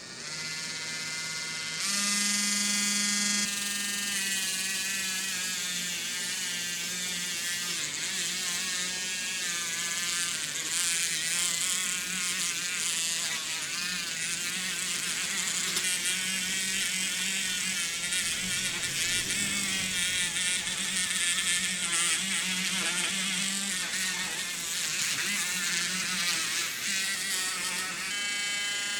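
A small electric power tool running steadily, its motor pitch wavering slightly as it works, over a high hiss.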